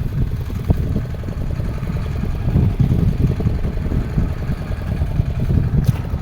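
Fishing boat's engine running steadily as a low rumble, with one short click near the end.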